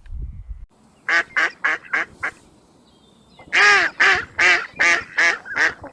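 A duck quacking in two runs: five short quacks, then after a pause six louder ones. There is a brief low rumble at the very start.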